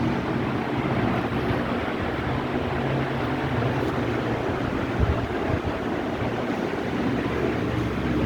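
56-inch Punjab ceiling fan running steadily: an even rush of air with a low motor hum underneath. A brief knock about five seconds in.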